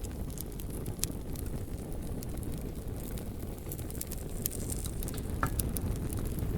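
Bonfire burning: a steady low rumble with scattered sharp crackles and pops from the burning logs, and a brief whistling note about five seconds in.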